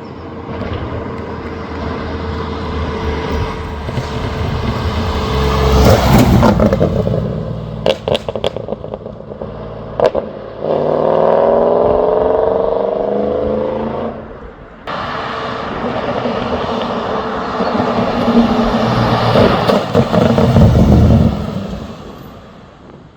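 BMW E30's swapped 4-litre V8 running loudly, its exhaust note swelling and fading, with a steady fall in pitch near the middle and a few sharp clicks. The sound breaks off abruptly and picks up again about two thirds of the way through.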